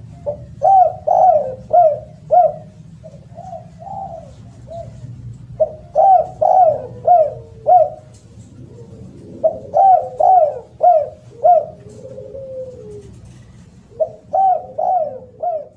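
Spotted dove (derkuku, tekukur) cooing loudly in repeated phrases of about five quick coos, one phrase every few seconds, over a faint low hum.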